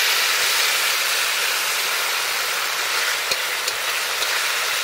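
Onion, garlic, ginger, green chillies and curry leaves sizzling steadily in hot oil in a pan with tomato ketchup just added, a spatula stirring them with a couple of light clicks.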